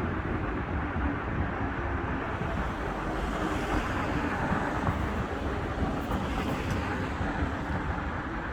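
Steady traffic rumble with wind buffeting the microphone.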